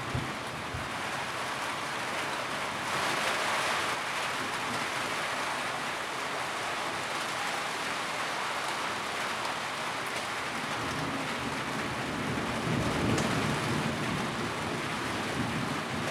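Steady rain drumming on a tin roof, a dense even patter that swells briefly about three seconds in. A low rumble rises and fades about thirteen seconds in.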